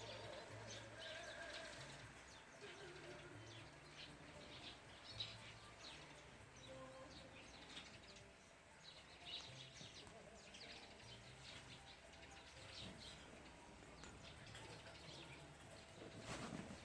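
Faint chirps and twitters of birds, short high calls scattered throughout, with a brief sharp knock about five seconds in.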